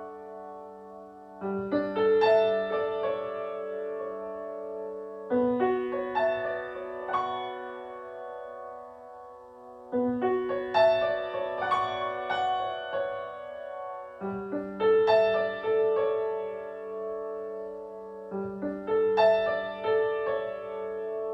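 Slow keyboard music, piano-like: a sustained chord struck about every four seconds, with melody notes picked out over it as each chord rings on.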